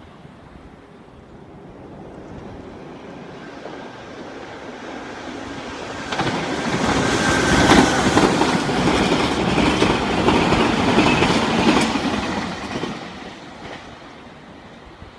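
Meitetsu express electric train (6000- and 6500-series cars) passing at speed, its wheels clattering over the rail joints. It builds from about two seconds in, is loudest from about six to thirteen seconds, then fades as it runs away.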